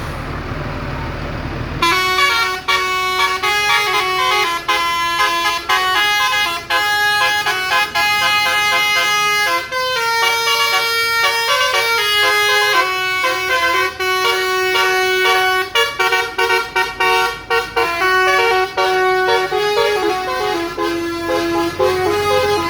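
A low rumble for about two seconds, then a horn plays a tune of held notes that step up and down in pitch, broken by short gaps.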